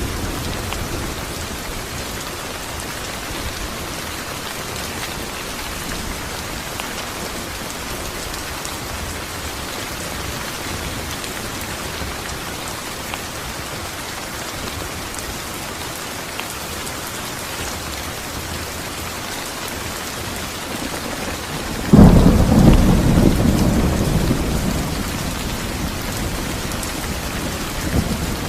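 Steady heavy rain hissing on surfaces, with a sudden loud thunderclap near the end that rumbles and fades over a few seconds.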